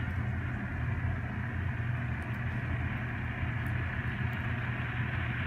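Sound decoder of a Scale Trains N scale Tier 4 GEVO model locomotive, playing its diesel engine sound steadily through the model's small speaker as the train runs.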